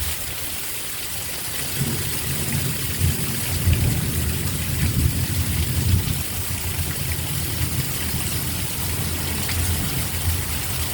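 Heavy thunderstorm rain pouring down with a steady hiss, with water sounding like a raging rush. An uneven low rumble joins in about two seconds in and is strongest for a few seconds after.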